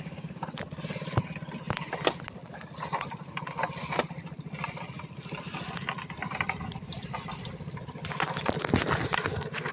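Water splashing and dripping with scattered knocks and clicks, over the steady pulsing hum of a boat engine running at idle. The splashing gets louder near the end.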